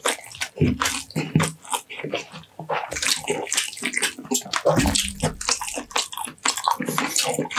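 Close-up wet chewing and lip-smacking of a mouthful of rice and baked lamb leg meat: irregular smacks and crackles, several a second.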